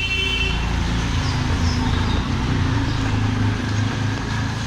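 A motor vehicle's engine running close by in city street traffic. Its low hum shifts a little in pitch over the few seconds.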